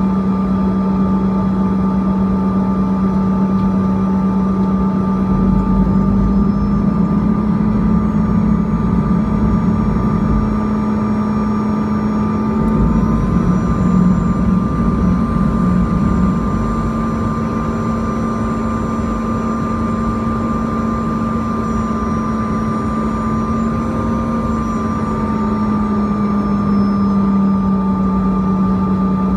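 Bombardier CRJ-200's twin rear-mounted GE CF34 turbofans heard from inside the passenger cabin: a steady engine drone and whine whose pitch rises slightly about six seconds in and settles back near the end.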